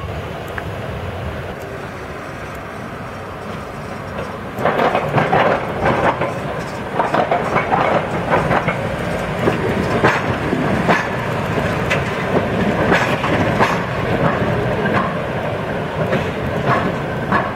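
Tram running on street track, its wheels rumbling steadily, then clattering loudly over the rails with a quick run of sharp knocks from about four seconds in.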